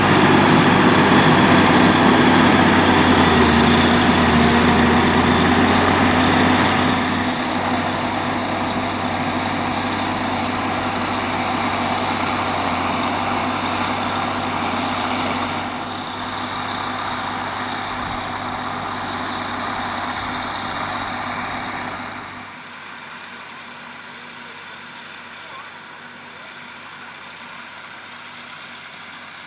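Fiatagri 180-90 Turbo DT tractor's turbo diesel engine running steadily under load while pulling a three-furrow plough. It grows quieter in steps, with a clear drop about three quarters of the way through.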